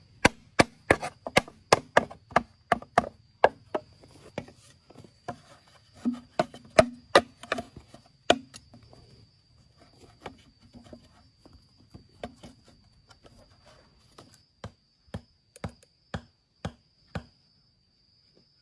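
Repeated sharp chopping blows, about two a second, thinning out and growing fainter in the second half and stopping near the end. A steady high insect drone runs underneath.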